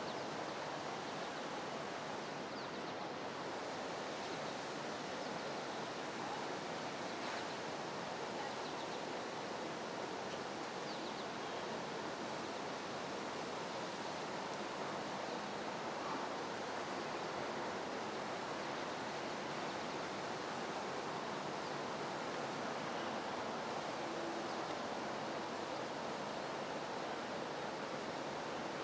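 Steady rushing water noise, with no change in level: typical of a canal lock chamber filling to raise a ship.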